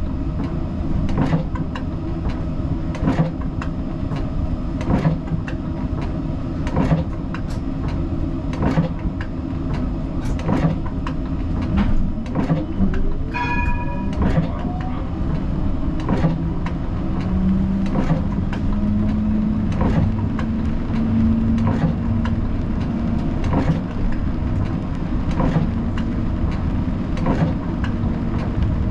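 Siemens Combino tram running on its rails: steady low rumble with regular clicks roughly every two seconds. About halfway through, a short beep sounds, and a whine rises in pitch over a couple of seconds.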